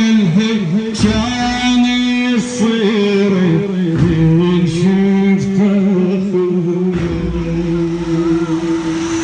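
A radood's voice chanting a sung Shia lament (latmiya), holding long notes that bend and slide between pitches, with a short low hit about every three seconds.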